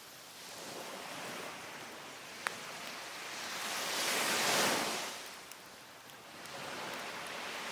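Sea waves washing up the beach, one swelling to its loudest about halfway through and then fading, the next building near the end. Two sharp pops from a crackling wood fire.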